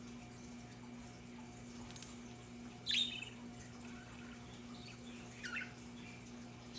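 Budgerigars chirping: two short falling calls, the first about 3 seconds in and louder, the second about two and a half seconds later, over a steady low hum.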